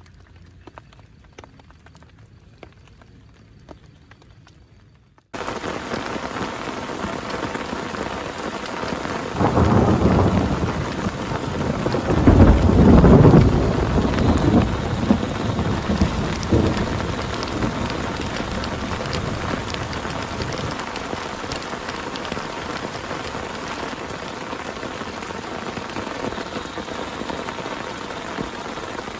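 Faint, sparse ticking for the first few seconds, then heavy rain cuts in abruptly and pours steadily. A few seconds later a long rumble of thunder swells, is loudest around the middle, and fades out over several seconds while the rain keeps pouring.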